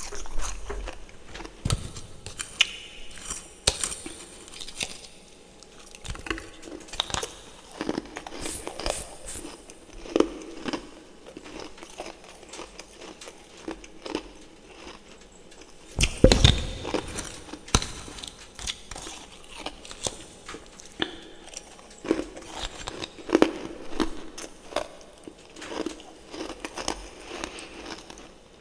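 Close-up eating sounds of refrozen freezer frost: irregular crunching and crackling bites and chewing of icy frost chunks, with one louder crunch about halfway through.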